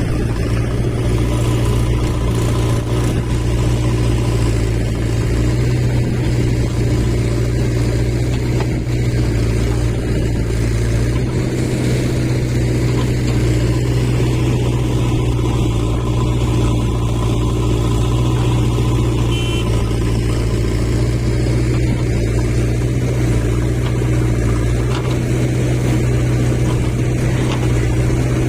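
Eicher 5660 tractor's diesel engine running steadily at an even speed.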